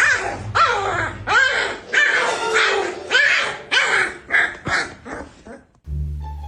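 A dog barking and yipping in a quick series of about ten high calls, each falling in pitch, which cuts off about six seconds in and gives way to music.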